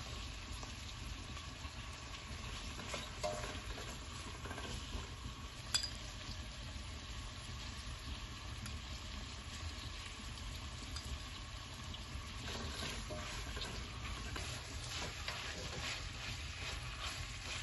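Food sizzling in a hot pan while it is stirred, with scattered scrapes of a utensil against the pan and a sharp clink about six seconds in.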